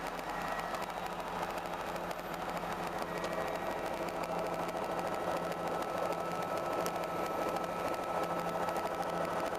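Helicopter running steadily: a dense mechanical drone with several steady tones, and a higher thin whine that joins about three seconds in.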